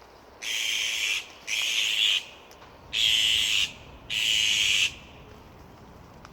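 Azure-winged magpie giving four harsh, rasping calls, each lasting under a second, in two pairs.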